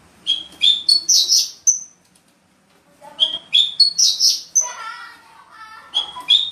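Javan bush lark (branjangan) singing a short phrase of sharp chirps that ends in a thin high whistle, repeated three times about three seconds apart. Between the second and third phrases there is a lower rippling chatter.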